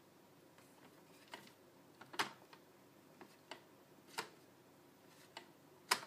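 Scattered light clicks and taps at irregular intervals, the loudest about two seconds in and again near the end.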